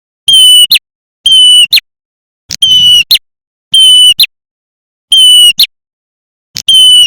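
Looped lure recording of a prenjak merah (red-headed prenjak) call: a loud half-second note with a quick short note right after it, repeated about six times, roughly once a second, with dead silence between.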